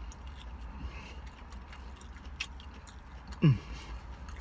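A person chewing a mouthful of slider with mouth closed, with faint scattered wet clicks over a steady low hum. About three and a half seconds in comes one short falling "mm" from the throat.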